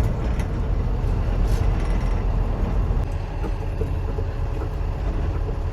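Inside the cabin of the Asa Kaigan Railway DMV, a microbus-based dual-mode vehicle, driving on the road in bus mode: a steady low engine and road rumble with a few light rattles.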